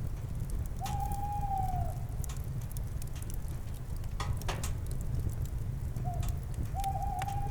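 Campfire crackling and popping over a low steady rumble, while an owl hoots twice: each hoot a held tone of about a second that drops away at the end, the second one led by a short note.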